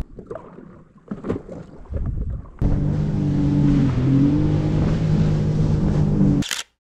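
Wind on the microphone, then a jet ski engine running steadily, coming in suddenly a little before halfway and cutting off near the end.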